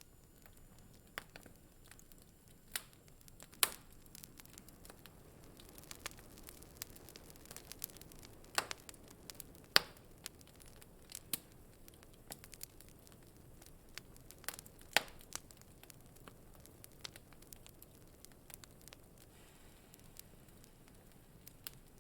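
Wood fire crackling in a fireplace: irregular sharp pops and snaps over a low steady hiss, with a few louder snaps about four, nine, ten and fifteen seconds in.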